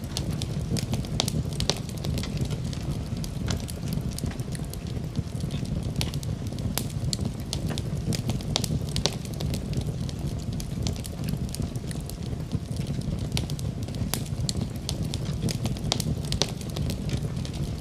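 Wood fire crackling and popping in a fireplace: many irregular sharp pops over a steady low rumble of flame.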